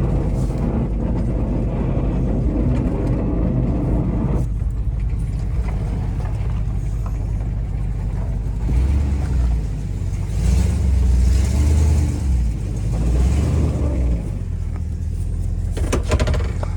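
Chevrolet Silverado's 6.0 LS V8 running as the truck is driven, with a steady low rumble that gets heavier with throttle from about nine to fourteen seconds in.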